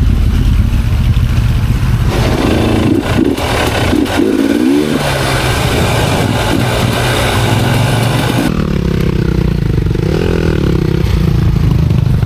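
Enduro dirt bike engines running and revving on a trail climb. A harsher, noisier stretch with wavering engine pitch runs from about two seconds in until past eight seconds.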